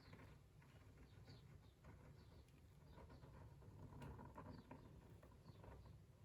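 Faint scratching of a fineliner pen on watercolour paper, in many short irregular strokes as pencil lines are inked over.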